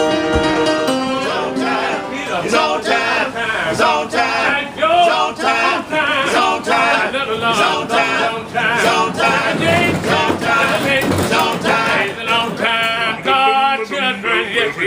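Male voice singing a gospel song with strong vibrato and long held, wavering notes; steady instrumental chords sound under it in the first second.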